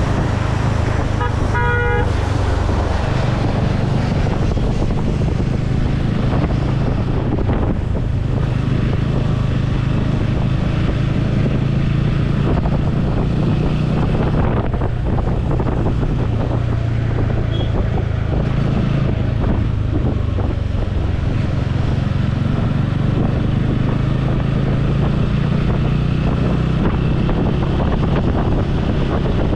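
Motorcycle engine running steadily under way, with wind buffeting the helmet microphone. A vehicle horn honks briefly about two seconds in.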